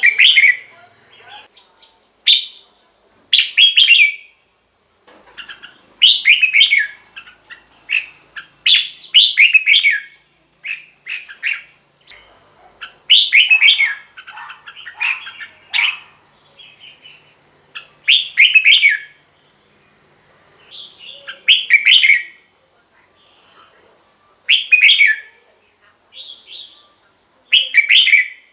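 Red-whiskered bulbul singing: short, loud, warbling phrases repeated every two to three seconds, with softer chirps between them.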